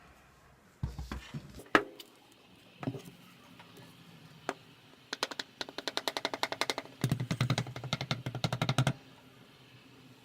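A few scattered knocks, then two runs of rapid clicking and rattling, about ten a second, from foot powder and a hair dryer being handled while the powder is loaded into the dryer.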